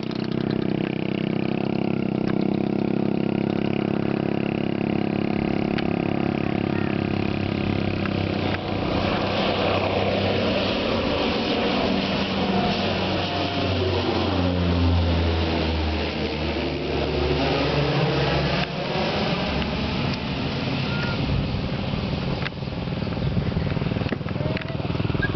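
Twin turboprop engines of an MA-60 airliner on its take-off run at high power, passing by, with the low engine tone dropping in pitch as the aircraft goes past about two-thirds of the way in.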